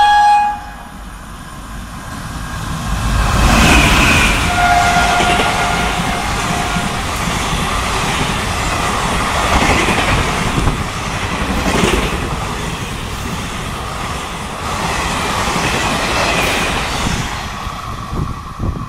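WAP-4 electric locomotive hauling an express passenger train through a station at speed. Its horn cuts off about half a second in and a lower horn note sounds again about four to seven seconds in as the locomotive goes by. The coaches then rush past with the wheels clattering over the rail joints.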